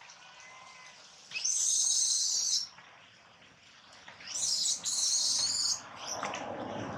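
Monkey screeching: two shrill calls of a second and a half or so each, a couple of seconds apart. A steady rushing noise starts near the end.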